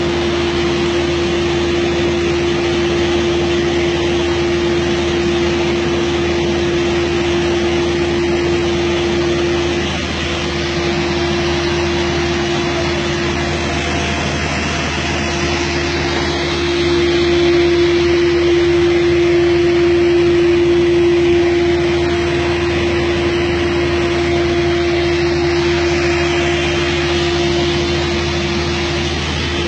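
SC400 CNC sliding table panel saw running, a steady machine hum with one strong held tone. The loudness dips about ten seconds in and rises for a few seconds from about seventeen seconds.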